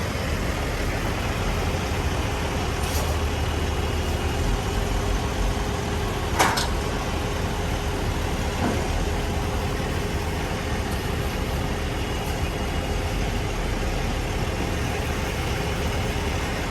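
Heavy diesel truck engine running steadily, with one short sharp knock about six seconds in.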